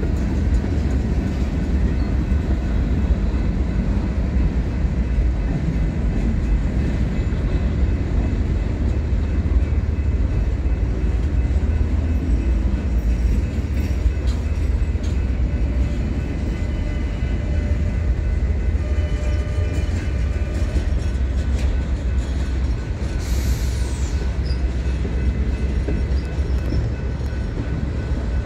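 Freight train cars rolling past on the track: a steady, heavy rumble of steel wheels on rail, with faint thin high tones ringing above it.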